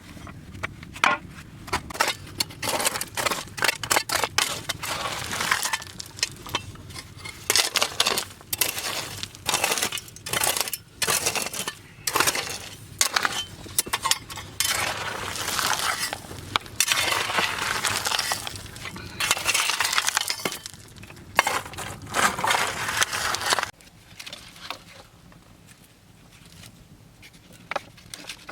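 Hard objects knocking and clinking again and again, with stretches of scraping or crunching, stopping suddenly about 23 seconds in.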